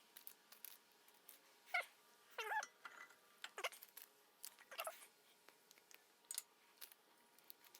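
Light clicks with four short squeaks that bend up and down in pitch, during the fitting of hardware onto brake pads.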